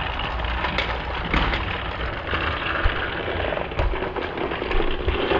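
Slowed-down sound of battery-powered Thomas TrackMaster toy engines running on plastic track: a deep, drawn-out rattling rumble with scattered clicks.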